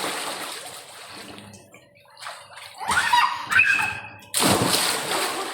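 Splashing of someone jumping into water: the water churns and settles from a big splash at the start, then another sudden big splash comes about four and a half seconds in.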